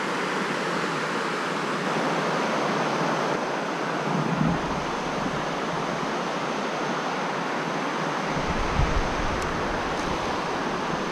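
Steady rush of stream water, with gusts of wind buffeting the microphone as a low rumble from about halfway through.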